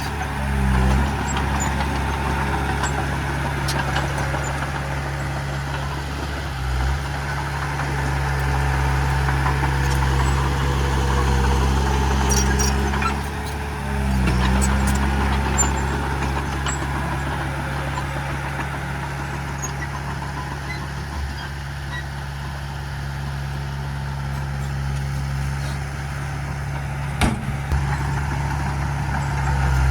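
Heavy diesel engine of an earthmoving machine running steadily with a deep hum. Its note shifts briefly a couple of times, and a few sharp knocks come near the end.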